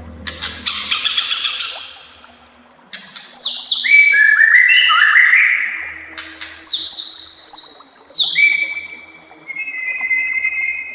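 White-rumped shama (murai batu) singing: a fast rattling phrase at the start, then loud runs of quick, descending slurred whistles, and a few clear whistled notes near the end.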